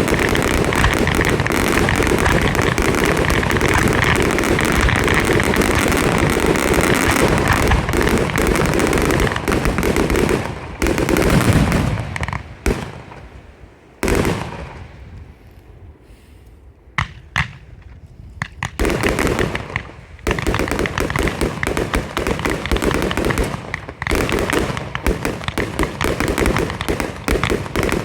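Fireworks display: a dense, rapid run of shots and crackling, then a lull about halfway through with only a few single sharp cracks, before rapid firing starts again.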